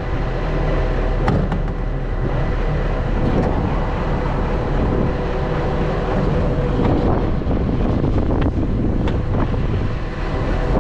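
Garbage truck running steadily, with strong wind buffeting the microphone.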